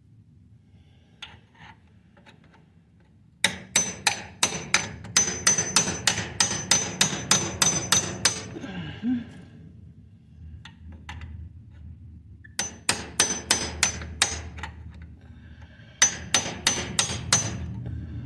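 Hammer blows on the steel front drive shaft of a Kubota BX2200 compact tractor, in three runs of quick strikes at about four a second, each blow with a high metallic ring. The first run is the longest, about five seconds.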